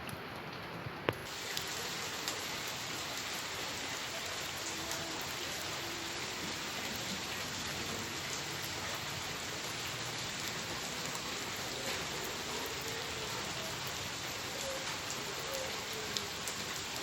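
Heavy rain falling steadily on the ground and rooftops. A sharp click comes about a second in, after which the rain is louder and brighter.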